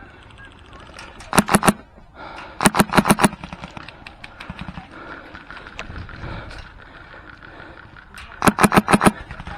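Airsoft rifle with an HPA-powered Fusion Engine firing three short rapid bursts. There are about four shots about a second in, about six around three seconds in, and about seven near the end.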